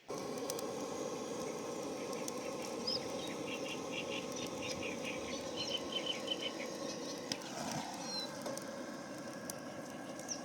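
Birds chirping, a run of short repeated high notes in the middle, over a steady outdoor background noise with scattered light clicks.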